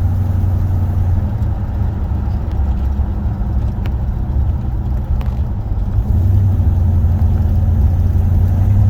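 Oldsmobile 455 Rocket V8 and its somewhat loud exhaust droning steadily while driving, heard from inside the cabin. The drone grows louder about six seconds in.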